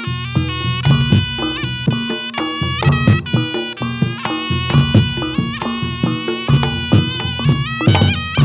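Reog Ponorogo gamelan music: a slompret, the shrill double-reed trumpet, plays a stepping melody over a steady beat of drum and gong-chime strokes.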